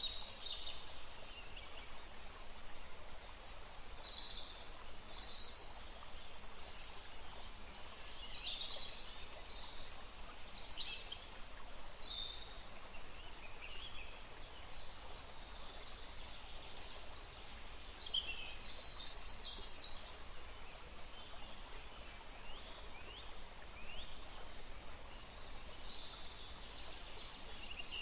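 Songbirds chirping and trilling on and off, in bunches of quick high notes, over a steady rushing background of wind and water.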